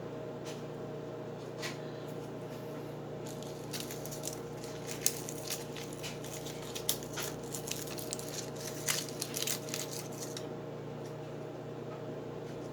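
Antacid tablets fizzing in a jar of baby oil and paint: irregular small pops and crackles of bubbles for several seconds from about three seconds in, then they die away, over a steady low room hum.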